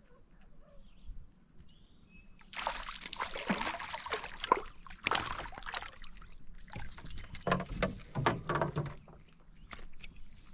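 Water splashing and sloshing against a canoe, with irregular sharp splashes, as a hooked smallmouth bass thrashes at the surface beside the boat. Crickets chirp steadily at first and again near the end.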